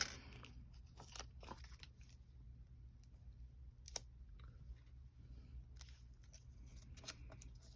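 Faint rustles and small scattered clicks of paper crafting: foam adhesive dimensionals being peeled from their backing sheet and pressed onto a paper piece, with one sharper click about four seconds in.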